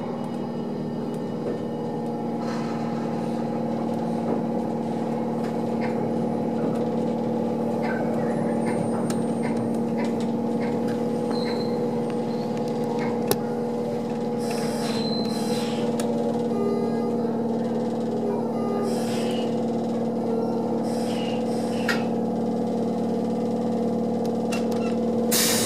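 Steady hum and running noise inside the cab of an Odakyu 1000 series electric train as it moves along a station platform, with a short hiss near the end.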